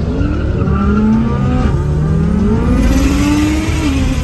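BMW 335is engine pulling hard under acceleration through the dual-clutch gearbox, its pitch climbing in each gear with quick upshifts about halfway through and near the end. A hiss joins in from about three seconds in.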